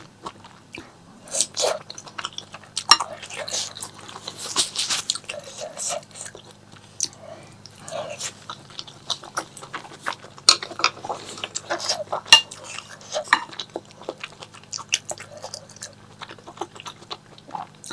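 Close-miked eating sounds: chewing and biting food, with wet mouth smacks and clicks at an irregular pace.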